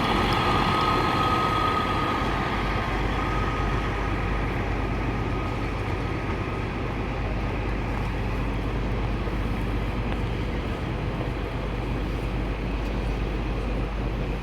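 Class 153 diesel railcar departing, its diesel engine a steady low rumble that slowly fades as it pulls away. A high whine fades out in the first few seconds.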